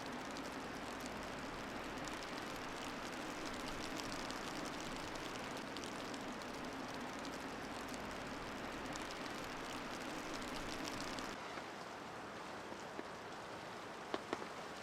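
Steady rain falling, a dense hiss full of small drop ticks. It drops a little in level about eleven seconds in, and a few sharp knocks come near the end.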